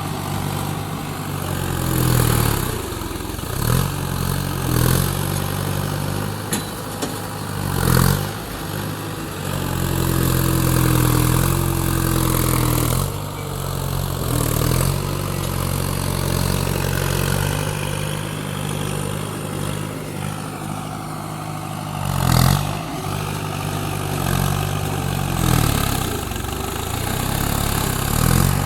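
Diesel excavator engine running under working load, its pitch rising and falling as the hydraulics are worked, with occasional sharp clanks from the machine.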